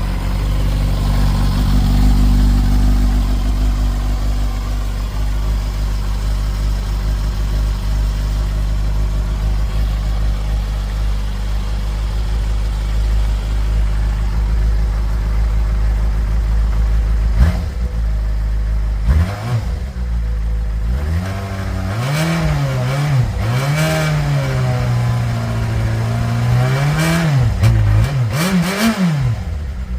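Yamaha FZ6 S2's 600 cc inline-four running through a drilled-out exhaust: a steady idle for a little over half the time, then a run of short throttle blips, each rev climbing and dropping back quickly.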